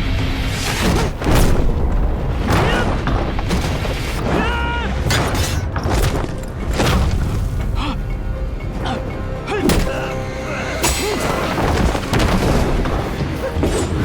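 Action film soundtrack: dramatic score with repeated heavy booms and impact hits throughout, and a short vocal cry about four and a half seconds in.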